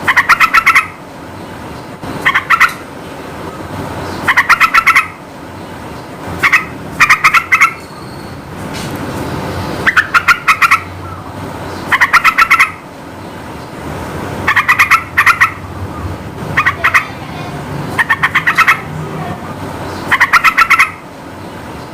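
Sooty-headed bulbul (trucukan) calling loudly in short bubbly phrases of several rapid notes, one phrase about every two seconds, over a low steady background rumble.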